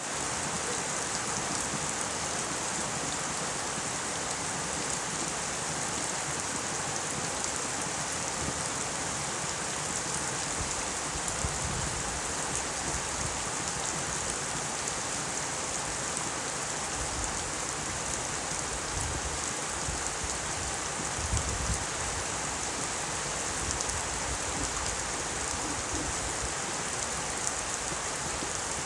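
Steady rain falling, a dense, even hiss of drops on surfaces, with a few brief low rumbles near the middle.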